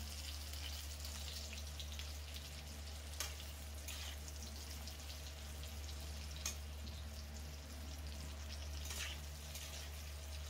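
Sun-dried mango slices and dried red chillies faintly sizzling in oil in a steel kadai, frying on a low flame. A metal spatula stirs them with a few light clicks against the pan.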